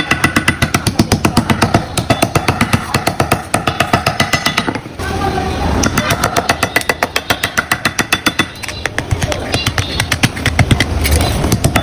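Rapid, steady metal-on-metal tapping on the tin-plate of an oil can being shaped, many strikes a second, broken by a few short pauses.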